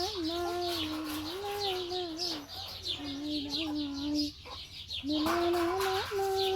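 Chickens peeping and clucking in the background, with short high chirps coming several times a second, under a voice holding long notes that step up and down in pitch, in phrases of two to three seconds with a break a little past the middle.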